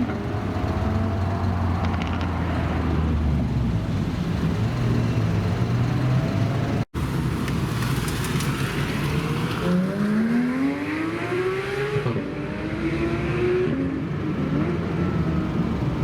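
Car engines accelerating away, the engine note climbing in pitch through the gears. A cut about seven seconds in leads to another car pulling away hard, its note sweeping up, dropping at a gear change and climbing again.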